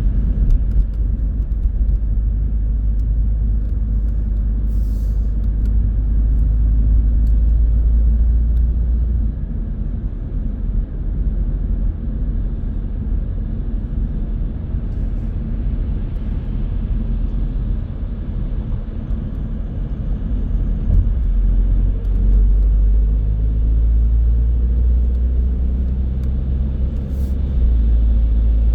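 Car driving on the road: a steady low rumble of engine and tyre noise that shifts in depth a few times.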